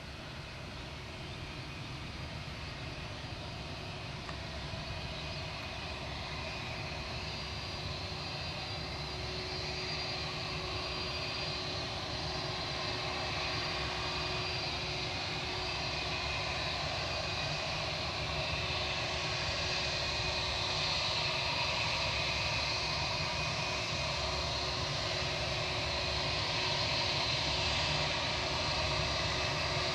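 Airbus A320-232 jetliner with IAE V2500 turbofans, its engines making a steady roar with a high whine on top. The sound grows steadily louder as the aircraft approaches.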